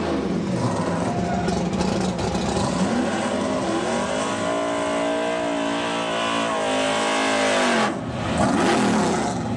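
Drag-race car engine during a burnout: revved up and held at high, steady revs for about four seconds, then let off suddenly, followed by a few rising and falling revs.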